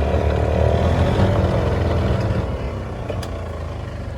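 A motor vehicle engine running close by, falling in pitch and getting quieter over the last couple of seconds.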